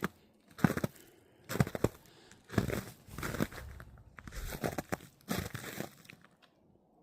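Footsteps crunching in snow, about one step a second, stopping about six seconds in.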